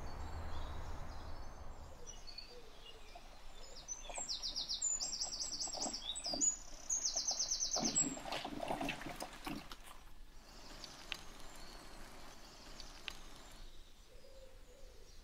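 Wild birds singing, one giving rapid, repeated high trills for a few seconds, followed by a short stretch of rustling noise.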